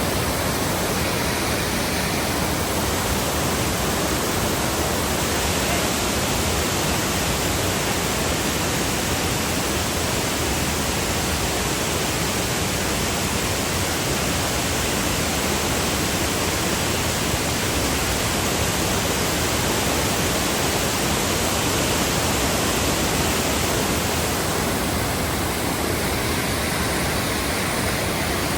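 Waterfall: a heavy, steady rush of falling water.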